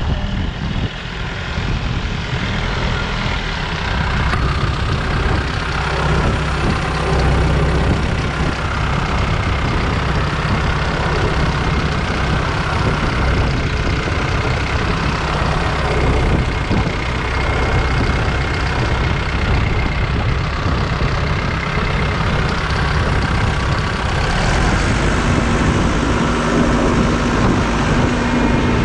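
Large farm tractor's diesel engine running steadily, a heavy low drone; a steady humming tone joins in near the end.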